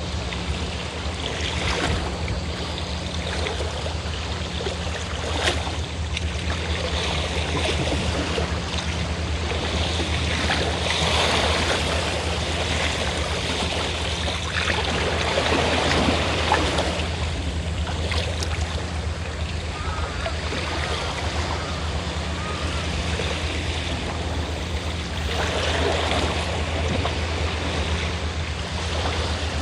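Sea waves washing ashore in slow swells every few seconds, over the steady low hum of a fishing boat's engine running offshore.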